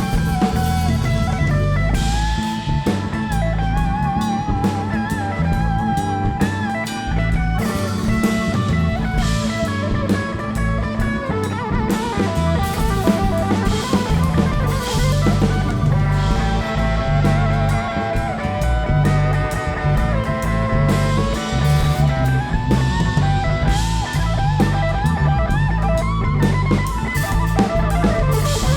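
A live rock band playing an instrumental break: an electric lead guitar plays a melody with bends and vibrato over a full drum kit and bass.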